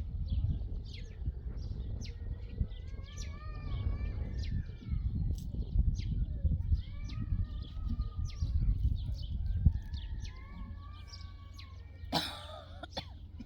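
Small birds chirping over a low, steady rumble, with a short noisy burst near the end.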